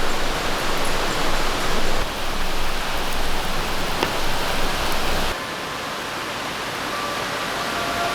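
Steady rain falling, an even hiss; about five seconds in it drops to a quieter, thinner rain sound with less low rumble.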